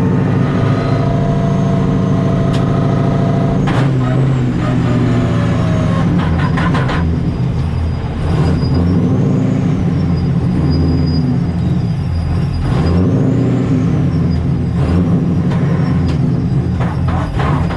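Supercharged Nissan 240SX engine running on a drive, with the TorqStorm centrifugal supercharger's high whine rising and falling twice with the revs.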